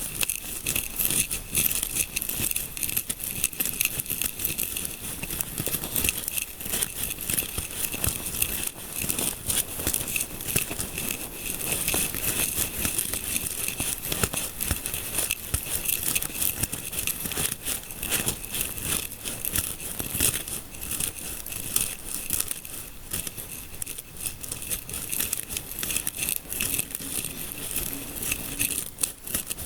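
Close-up crackly scratching and rustling of fingers rubbing through hair in an ASMR scalp massage, continuous and dense throughout.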